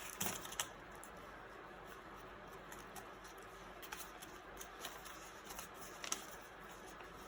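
Paper banknotes and a budget envelope being handled: faint rustling and crinkling with scattered small clicks, a few sharper ones just after the start and again about six seconds in.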